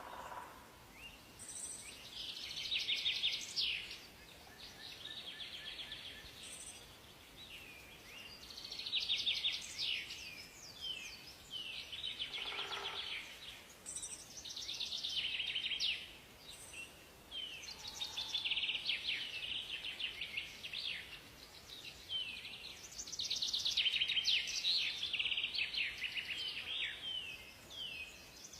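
Several songbirds singing in a forest, one quick, high, chirping or trilled phrase after another, each lasting a second or two and often overlapping, over a faint steady hiss.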